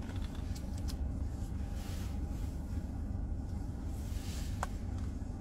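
Steady low rumble of a vehicle, with a few light clicks around half a second to a second in and a brief high tone near the end.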